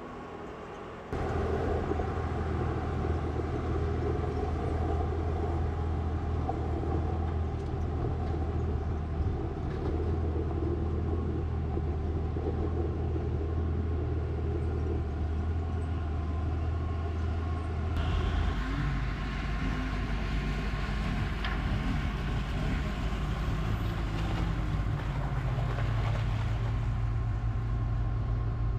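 A vehicle engine running steadily, starting abruptly about a second in. Its sound changes abruptly about two-thirds of the way through, and the low drone then rises slightly in pitch.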